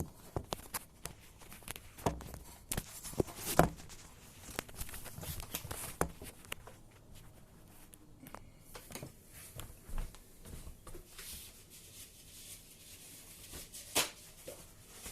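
Handling noises from work on a dishwasher: scattered clicks and knocks with light rustling, the loudest knocks about three and a half seconds in and near the end.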